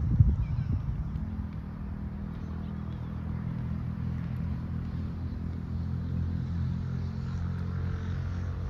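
Gusty storm wind rumbling on the microphone, strongest in sharp buffets during the first second, over a steady low engine-like hum.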